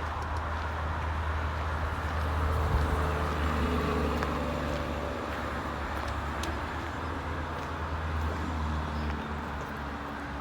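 Road traffic as a steady rumble, swelling as a vehicle passes about three seconds in.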